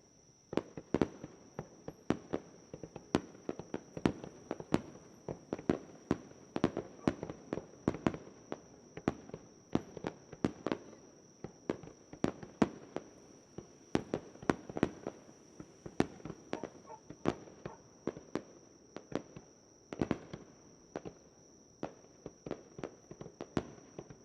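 Aerial fireworks going off in rapid succession: a steady stream of sharp bangs and cracks, several a second, starting about half a second in. A steady high-pitched insect trill runs underneath.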